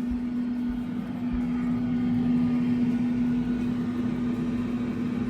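Countertop air fryer running, its fan giving a steady hum with a low, even tone, growing slightly louder over the first couple of seconds.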